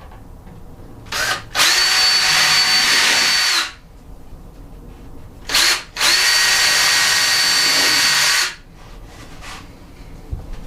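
Power drill running at steady full speed in two runs of about two to three seconds each, each begun by a short blip of the trigger, likely making the holes for screws that fasten a countertop down from inside the cabinet below.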